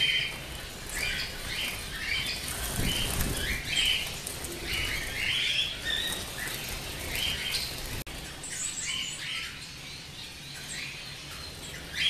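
Small birds chirping, many short high calls in quick succession, two or three a second, with a low rumble about three seconds in.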